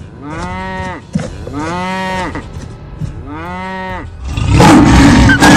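Cartoon cow mooing three times, each moo rising then falling in pitch. About four and a half seconds in, a much louder, rough roar breaks in and keeps going.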